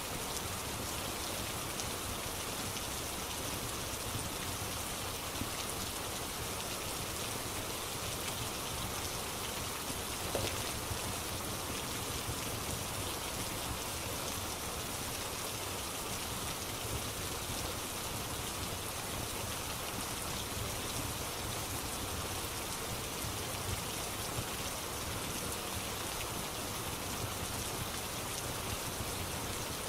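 Steady rain ambience: an even, unbroken hiss of rain falling, with one faint click about ten seconds in.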